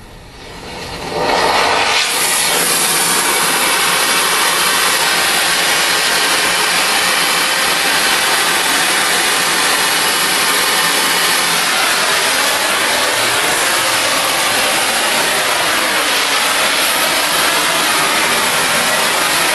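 Oxy-fuel cutting torch flame-cutting steel railroad rail: a loud, steady hiss of the oxygen jet that builds up about a second in and then holds.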